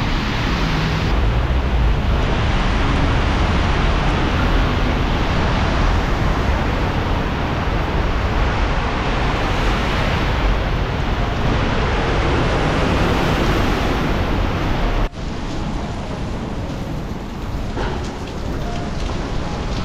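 Torrential rain pouring down, a loud dense steady hiss with a low rumble underneath. About fifteen seconds in it cuts abruptly to a slightly quieter stretch of the same downpour.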